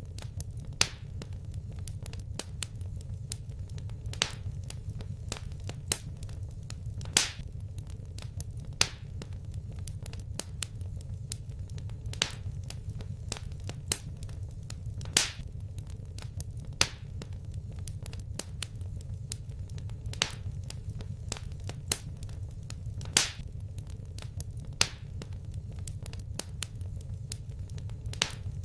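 Wood fire crackling: a steady low rumble of flames with frequent small snaps and a louder, sharper pop at irregular gaps of one to three seconds.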